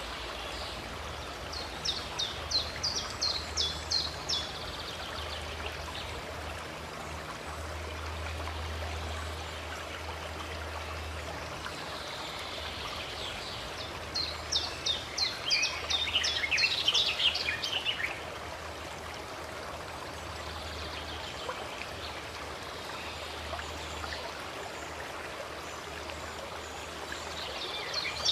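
A stream flowing steadily, with a bird singing two phrases of rapid, high-pitched repeated notes over it, the second longer and descending at its end.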